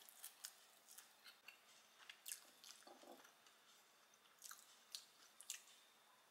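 Faint chewing of crusty bread, heard as scattered crisp crunches and clicks, the strongest a little after two seconds and again around five seconds in.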